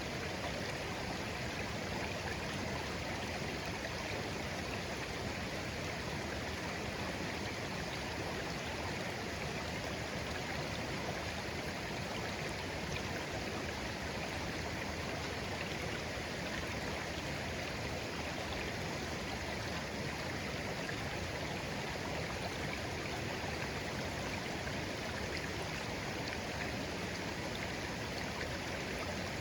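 A shallow, clear stream flowing steadily, an even babble of water over stones.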